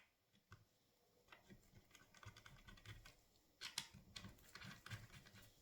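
Faint clicks and light knocks of small metal brake-caliper parts and tools being handled during a caliper rebuild, irregular and growing busier from about two seconds in.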